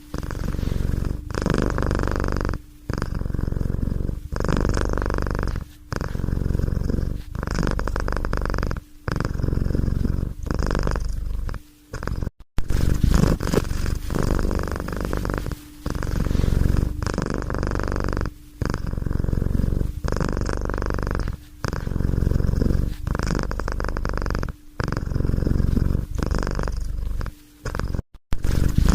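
Domestic cat purring close to the microphone, in steady repeated rumbling pulses of about a second or more with brief pauses between breaths.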